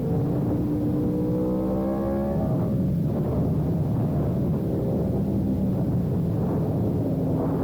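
Sport motorcycle engine accelerating: its pitch climbs for about two and a half seconds, breaks off at a gear change, then runs on under load and starts climbing again near the end.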